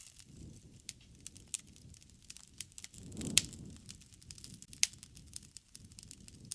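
Wood fire crackling: a low rush of flames with scattered sharp pops, the loudest about halfway through.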